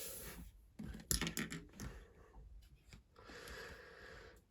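Hands handling small plastic LEGO pieces: a few sharp clicks and knocks about a second in, then a soft scraping rustle.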